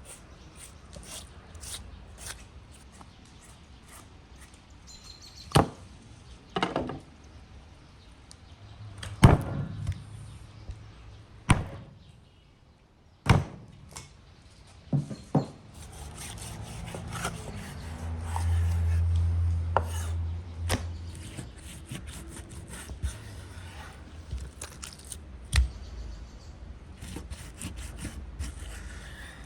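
Irregular sharp knocks and thuds, a second or several apart, with scraping and rubbing between them, and a low hum for a few seconds midway.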